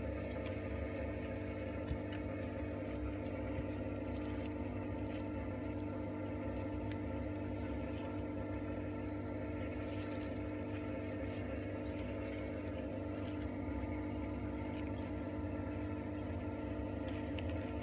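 Steady low electrical or machine hum made of several fixed tones, with faint scattered ticks and rustles over it.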